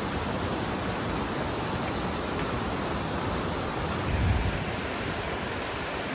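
Food sizzling on a propane-fired Skottle griddle: a steady hiss, with a low thump about four seconds in.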